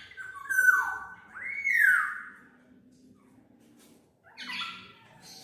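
Black-naped oriole (kepodang mas) calling: two loud calls in the first two seconds, each sliding down in pitch, then a fainter call about four and a half seconds in.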